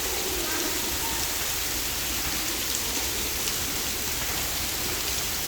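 Artificial indoor rain pouring steadily from the ceiling of a rain-room art installation onto the floor: an even, unbroken hiss of falling water.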